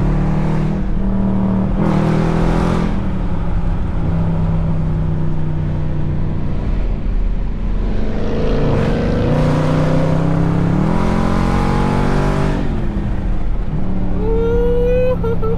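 Dodge 392 HEMI V8 running under way, a steady drone that rises in pitch as it accelerates twice, the second pull lasting several seconds before the note drops. A brief higher-pitched tone rises and falls near the end.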